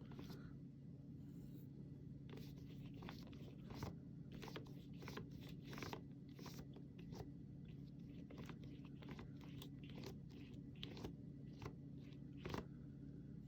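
Flat paintbrush working acrylic paint on canvas: faint, irregular scratchy strokes and dabs, a few sharper ones about four, six and twelve and a half seconds in, over a steady low hum.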